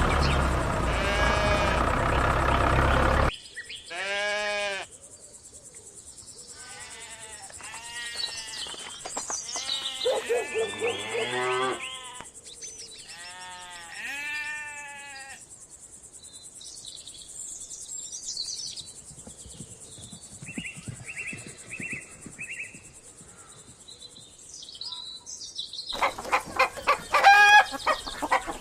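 A series of farm animal calls: a loud steady engine-like noise cuts off about three seconds in, then sheep and goats bleat several times, small birds chirp, and chickens start clucking near the end.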